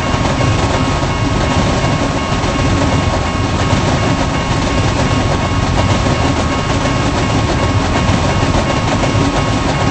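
Long intermodal freight train's cars rolling past on the rails: a loud, even rumble with a thin, steady whine.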